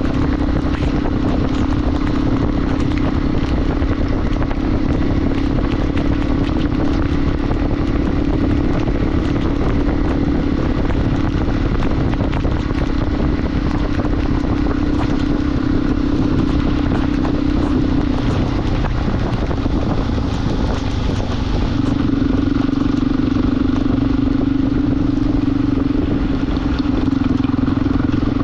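Motorcycle engine running steadily under way, with wind and road noise. About two-thirds of the way through the engine note eases off and drops a little, then picks up again a few seconds later.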